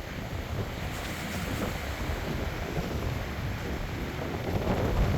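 Strong wind gusting across the microphone with a low rumble, growing louder near the end, with surf washing on the beach underneath.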